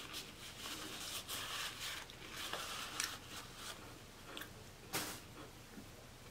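A person chewing a cheeseburger egg roll with the mouth closed: soft wet squishing and light crunching, broken by a few short clicks, the sharpest about five seconds in.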